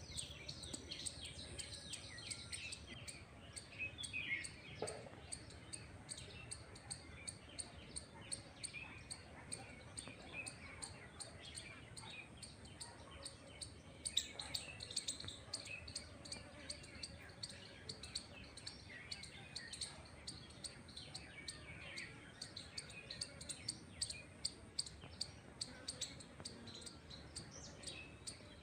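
Birds chirping and calling, many short high chirps following one another in quick succession, faint, over a steady background hiss.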